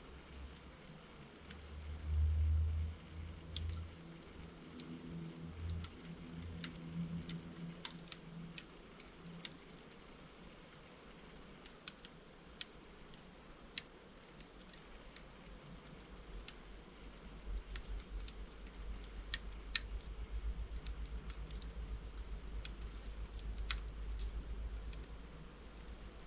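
Wood fire of burning logs in a fireplace crackling, with sharp pops at irregular intervals. A short low rumble comes about two seconds in, and a low fluttering rumble builds in the second half.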